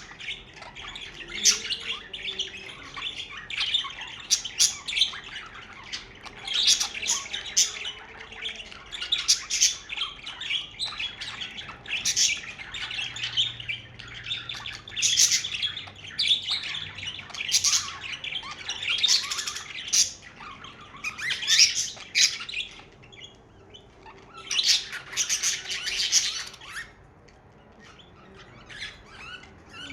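Pet budgerigars chirping and chattering continuously, a busy flock warble of short squawks and chirps with louder bursts every second or two, thinning out near the end.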